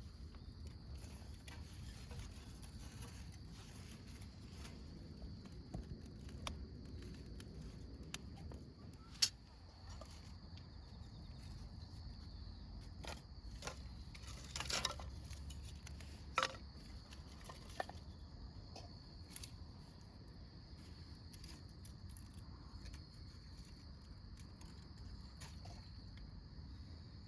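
Crickets and other autumn insects chirping steadily, with a few sharp clicks and knocks scattered through the middle.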